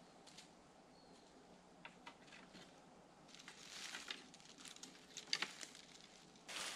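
Twigs and leaves being handled: faint rustling with scattered light clicks and snaps. It gets busier from about halfway and louder just before the end.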